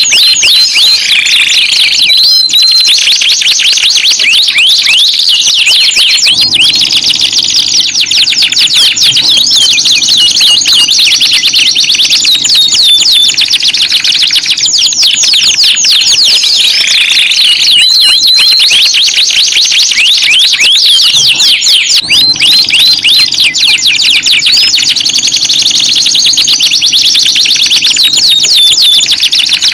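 Canary song: fast rolling trills and chattering runs mixed with clear, high whistled notes, loud and unbroken.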